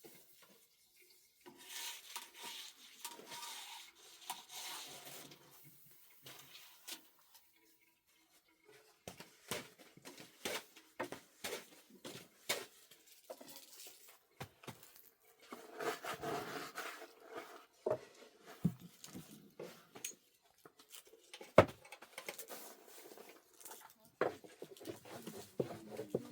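Scattered light taps, clicks and rubbing, like things being handled and set down, with one sharp knock a little over twenty seconds in.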